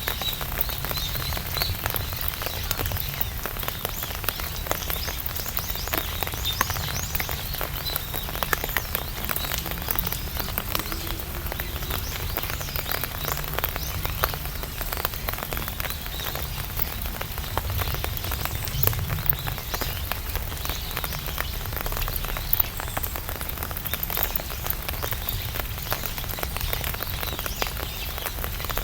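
Rain falling on an open umbrella: a dense, steady tapping of drops on the canopy, with a few louder single drops now and then.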